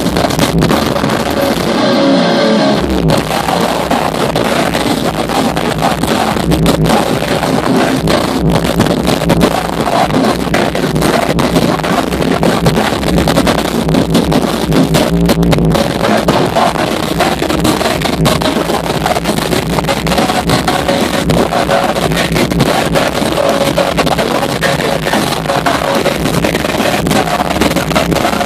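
A metalcore band playing live, loud and dense: distorted electric guitars, bass and drums. The bass drops out briefly about two seconds in.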